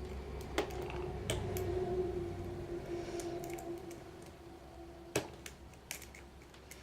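Lock picks and tension wrench working the pin stack of an ACE 2-inch rekeyable padlock with serrated spool pins: a few sharp, scattered metal clicks over a steady low hum.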